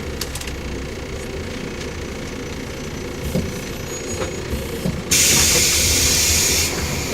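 Interior running noise of a JR 115 series electric multiple unit motor car (KuMoHa 115): a steady rumble of wheels, bogies and traction motors on the move. About five seconds in, a loud hiss breaks in suddenly, lasts about a second and a half, and cuts off.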